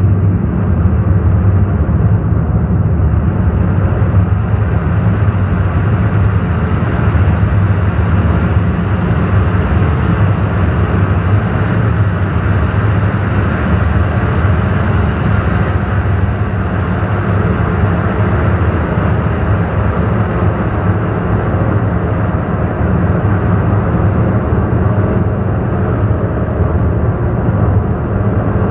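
Ambient drone music from analog synthesizers: a dense, steady low drone with a noisy wash above it, unchanging and without beat or melody.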